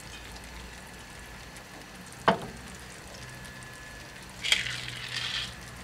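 Onion, bell pepper and grated carrot sizzling steadily and low in oil in a stainless steel wok-style pan, with a single sharp click about two seconds in and a brief rustle near the end.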